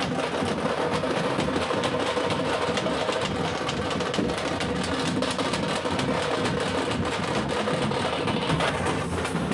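Tamate frame drums beaten with sticks, a fast, dense, unbroken rhythm of strokes.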